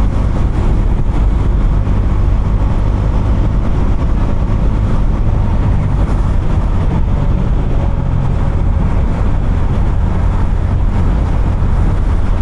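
Bajaj Dominar 250's single-cylinder engine and exhaust running at a steady cruise, its pitch holding nearly level.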